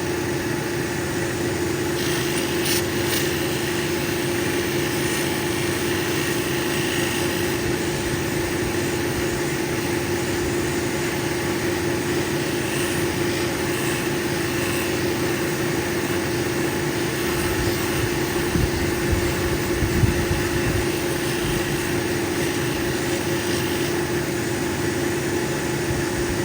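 Lapidary cabbing machine running with a steady motor hum while an opal is polished on its spinning 1200-grit wheel. An added hiss from the stone against the wheel starts about two seconds in and stops near the end, with a couple of low knocks about three-quarters of the way through.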